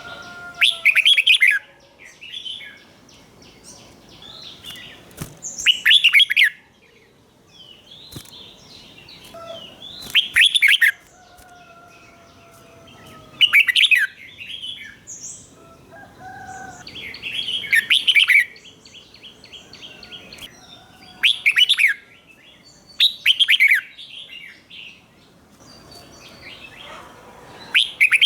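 Red-whiskered bulbul singing: about eight loud, warbled phrases, one every two to four seconds, with quieter bird calls in the gaps between them.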